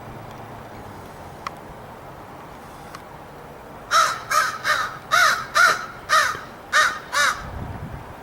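American crow cawing, a fast run of about eight harsh caws over three seconds in the second half.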